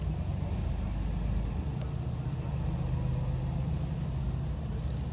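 A car engine running steadily at low revs, a deep even hum.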